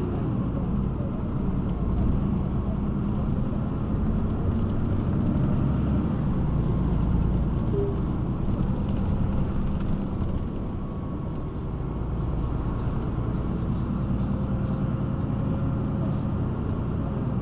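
City bus engine running, heard from inside the passenger cabin as a steady low hum.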